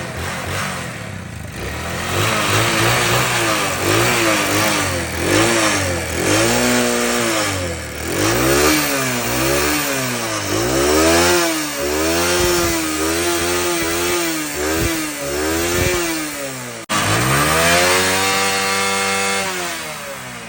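Royal Enfield Bullet single-cylinder motorcycle engine being revved over and over, the throttle blipped so the pitch rises and falls about once a second. After a sudden break near the end comes one slower, longer rev that climbs and then falls away.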